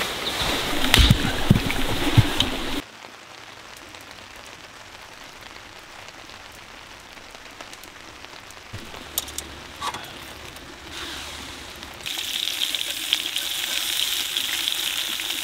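Rain falling, loud for the first few seconds with a few knocks, then cutting suddenly to a quieter stretch with scattered drips, and heavy again near the end.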